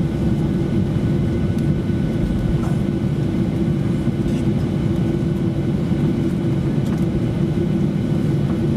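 Boeing 737-800's CFM56-7B engines and airflow heard from inside the cabin: a steady rumble with a constant hum, no change in pitch.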